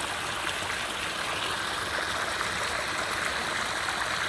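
Water of a pondless waterfall pouring steadily over rocks, a constant trickling rush.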